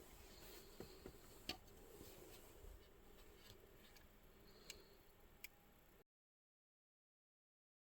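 Near silence with a few faint, sharp ticks over a low room hum; about six seconds in the sound cuts out to dead silence.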